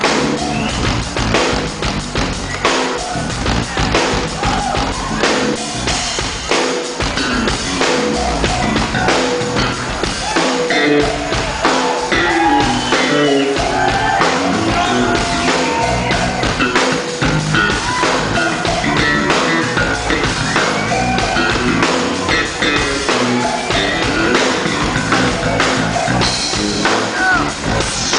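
Live rock band jamming: an electric bass solo over a drum kit keeping a steady beat, picked up loud from the front of the stage.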